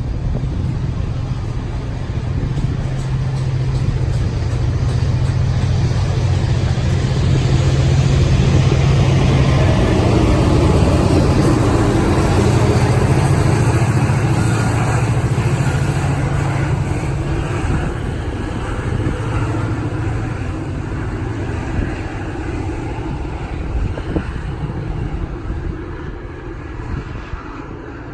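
Diesel-hauled train passing: a steady low engine drone over rolling wheel noise, growing to its loudest about a third of the way in, then fading as it moves off.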